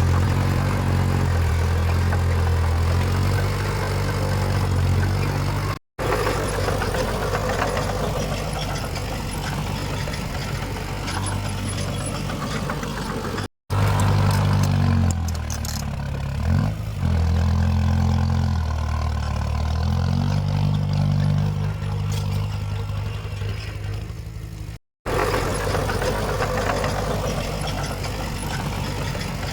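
Diesel engines of heavy earthmoving machinery running under changing load, the low engine note rising and falling. The sound cuts out for a moment three times.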